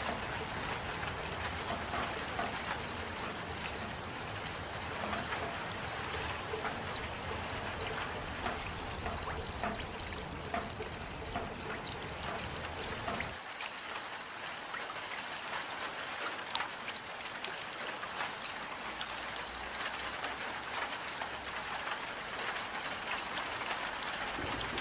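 Steady rain falling, an even hiss of water with small drop splashes. About halfway through, the deep low rumble under it drops out abruptly while the rain itself goes on.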